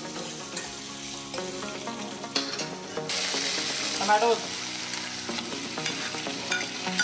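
Sliced onions sizzling in hot oil in a stainless-steel kadhai while a metal ladle stirs and scrapes against the pan. The sizzle gets louder about three seconds in.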